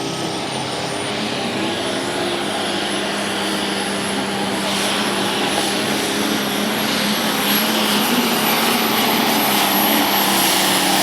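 Turbocharged diesel puller making a pass under heavy load: the engine runs hard and steady, with a high turbo whistle that climbs in pitch over the first few seconds and then holds, getting louder toward the end.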